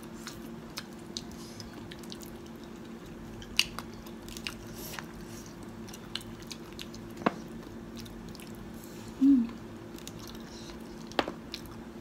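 Mouth sounds of people eating potato wedges dipped in cheese sauce: soft chewing and wet biting with a few faint clicks, over a faint steady hum. A brief voiced 'mm' comes about nine seconds in.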